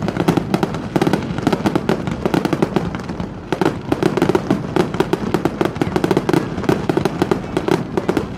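Fireworks display: a dense, continuous crackle of rapid bangs and pops, many each second.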